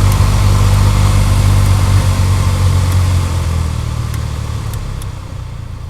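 Mitsubishi Lancer CY's heater blower motor running with a steady low hum and rushing air. From about halfway through it fades gradually, as the fan winds down.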